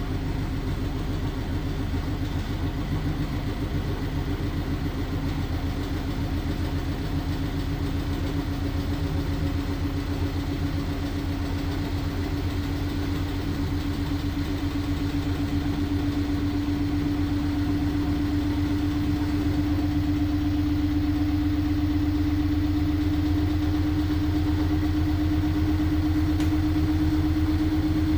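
LG washing machine spinning its load, a steady motor hum with a whine that rises slowly in pitch as the drum speeds up.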